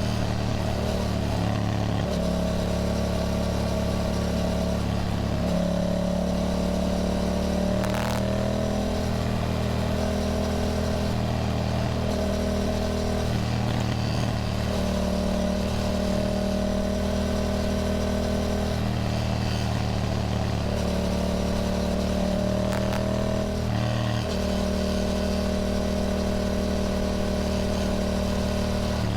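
Yamaha motorcycle engine running on the move, its note holding steady and then shifting in pitch several times as the throttle and revs change.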